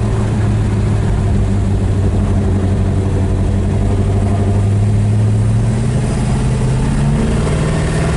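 426 Max Wedge V8 of a 1963 Dodge Ramcharger clone pulling under load while driving, its note climbing steadily in pitch through the second half, then changing near the end.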